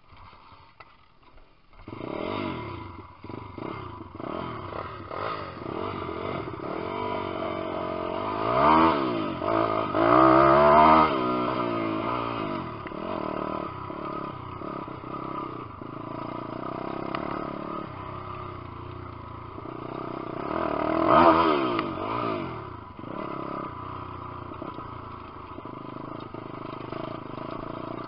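Lifan 150cc single-cylinder four-stroke pit bike engine starting about two seconds in, then running with the revs rising and falling repeatedly, loudest in two long revs around nine to eleven seconds and again after twenty seconds.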